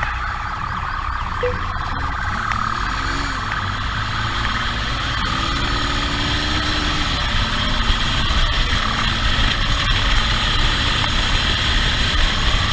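Police motorcycle siren sounding over the motorcycle's engine and a dense low rumble, heard from the rider's helmet camera during a pursuit. The engine revs up and down partway through.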